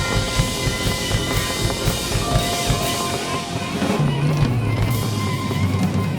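Live band of drums, piano, bass and saxophone playing, with a steady drum kit under held notes and a low bass line coming in about four seconds in.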